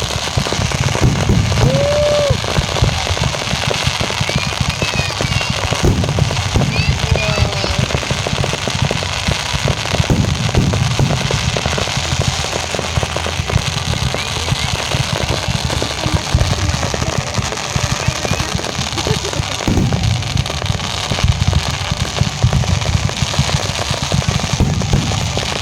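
Fireworks display: a continuous barrage of bangs and crackling with a deep rumble, with music playing underneath.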